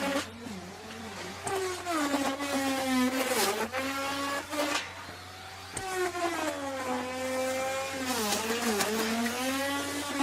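Electric wood router cutting wood. Its motor whine drops in pitch several times as the bit bites into the wood under load, with a rasping cutting noise, and climbs back up as the cut eases.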